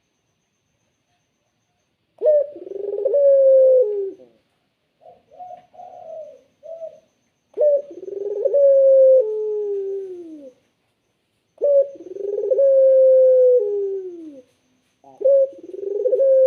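Ringneck (Barbary) dove, the Indonesian puter, cooing: four long calls, each a short sharp note followed by a long coo that falls in pitch. A few short soft notes come between the first two calls, which begin about two seconds in.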